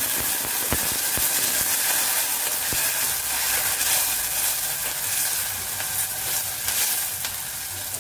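Whole green chillies sizzling hard in hot oil with a mustard-seed and cumin tempering in a steel pot, just after going in, while they are stirred. The sizzle eases a little near the end.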